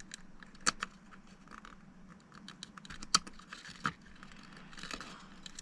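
Small plastic clicks and light scraping from handling and prying at small parts of a model locomotive, with three sharper clicks: one just under a second in, one about three seconds in and one near four seconds.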